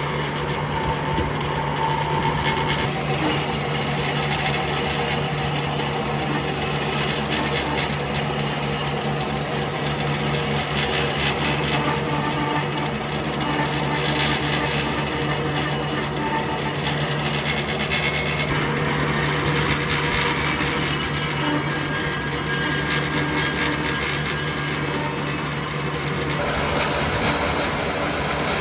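A power tool working wood: a steady motor hum under continuous rasping, abrasive noise as the tool cuts or sands the surface.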